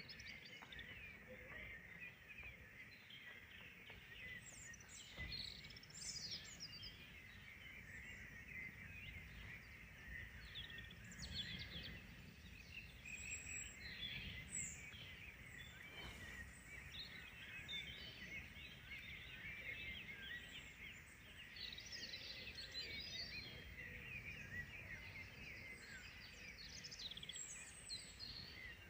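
Faint chorus of many small songbirds chirping and trilling at once, over a steady low outdoor rumble.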